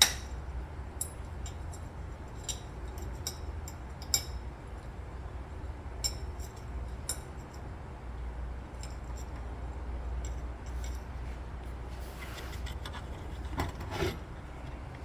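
Scattered light metal clicks and clinks, a sharp one right at the start, as a bent metal clutch-brake piece is handled and fitted onto the tractor, over a steady low hum.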